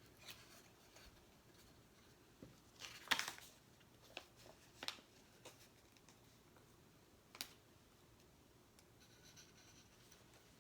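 Stickers being handled, peeled and pressed on by hand: sparse, quiet crinkles and taps, the loudest a short crinkly burst about three seconds in.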